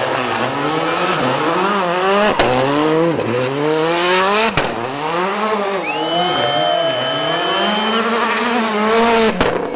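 Rally car engine revving hard up and down over and over, with three sharp bangs along the way. A steady high tyre squeal runs for about two seconds midway.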